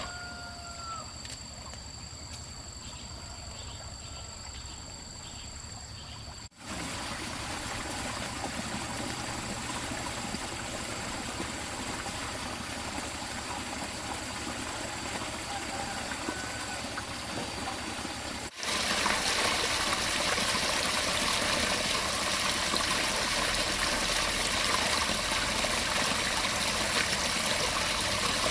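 Steady rush of running water, broken by two abrupt cuts about six and eighteen seconds in; the last stretch is the loudest.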